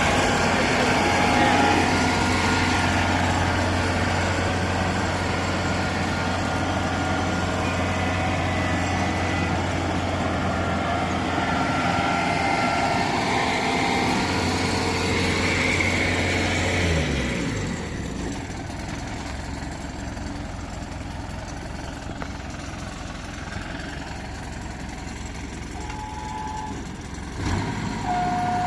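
Combine harvester running in a rice field, a steady engine note under heavy machine noise. About two-thirds of the way through the engine note falls away and the sound gets quieter.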